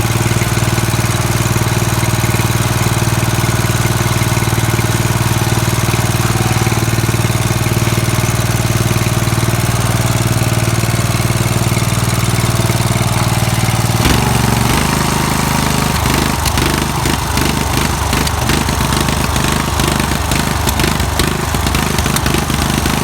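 Murray riding lawn mower engine running steadily at speed; about 14 seconds in it drops to a lower, uneven idle.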